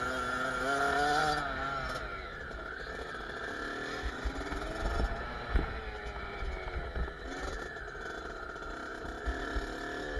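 Kawasaki KX65 two-stroke single-cylinder dirt bike engine revving up and falling back as it is ridden, with its pitch climbing in the first second or so and then dropping away. Wind rumbles on the microphone, and there are a few sharp knocks about halfway through.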